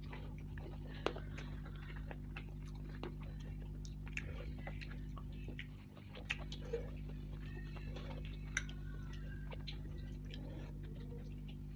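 Close-miked eating sounds: chewing and wet mouth clicks as fried luchi bread and curry are eaten by hand, with fingers tearing the bread. Many short sharp clicks are scattered throughout over a steady low hum.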